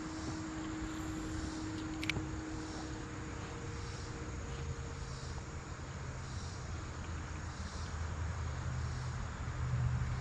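Steady outdoor background noise with a low rumble and a faint droning hum, like a distant engine, that fades out about halfway through. A single sharp click comes about two seconds in.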